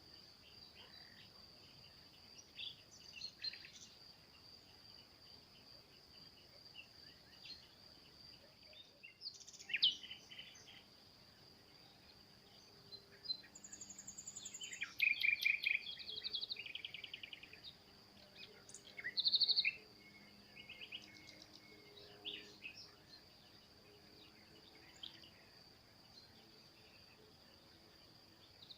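Several small songbirds chirping and trilling in a forest over a steady high insect buzz. The loudest trills come about ten seconds in, in the middle and around two-thirds through.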